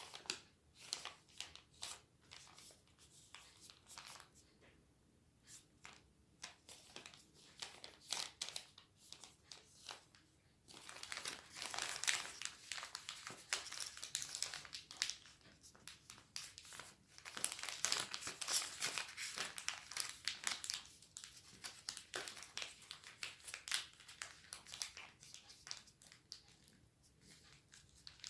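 A sheet of origami paper being folded and creased by hand: scattered soft crinkles and taps, then, about ten seconds in, a denser stretch of paper rustling and crinkling for roughly ten seconds, thinning out again toward the end.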